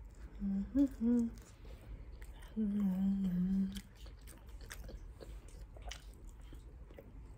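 A woman chewing a bite of food, with faint mouth clicks. She gives a few short hums in the first second and a longer steady 'mmm' about three seconds in.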